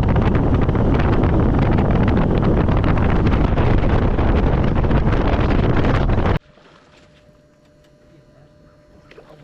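Boat running at speed across open water, with heavy wind buffeting the microphone. It cuts off abruptly about six seconds in, leaving quiet with a faint steady hum.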